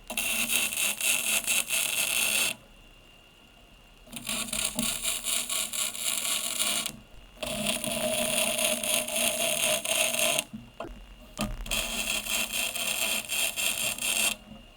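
A power tool cutting or grinding in four spells of about three seconds each, each starting and stopping abruptly, with a steady whine running under the harsh noise.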